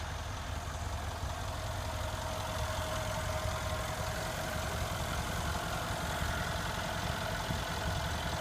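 The 5.5-litre twin-turbo AMG V8 of a 2015 Mercedes-Benz E63 AMG S idling steadily, heard from the open engine bay: a low, even hum with a faint constant higher tone above it.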